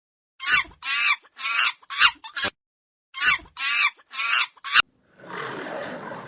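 Chicken clucking in two quick runs of short, repeated calls. Near the end a sharp click cuts it off and a rough growl of a different animal begins.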